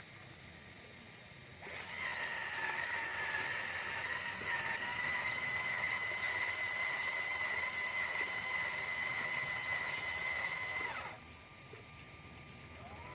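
Small electric motor whining steadily at one high pitch, starting abruptly about two seconds in and cutting off near the end, with faint repeated chirps above it, typical of an RC truck's drive motor under load.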